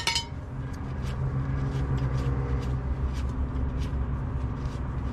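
Steady low mechanical hum of a running motor or engine, with a few faint clicks.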